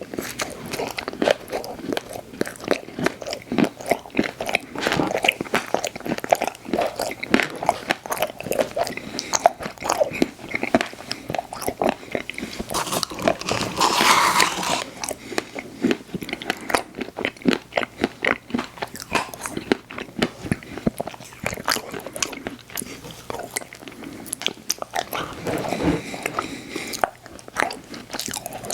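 Close-miked eating: big bites into soft ice cream desserts with cookie pieces, with many irregular crunches and wet chewing sounds. One longer, louder crunch comes about halfway through.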